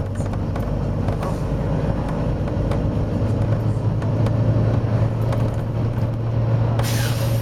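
Volvo B9TL bus's diesel engine running with a steady low drone; near the end a sudden loud hiss of compressed air is released from the bus's air system.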